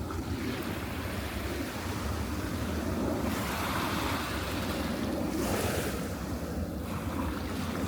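Gulf of Mexico surf washing onto the beach, swelling twice in the middle, with wind buffeting the microphone in a low rumble.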